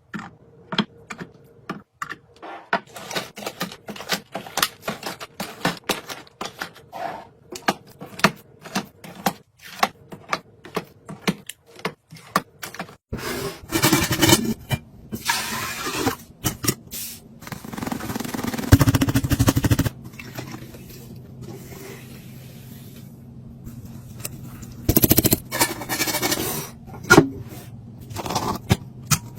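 Snack packages and containers being handled during a restock: many quick clicks and taps of items being set down, then stretches of rustling over a low steady hum from about halfway.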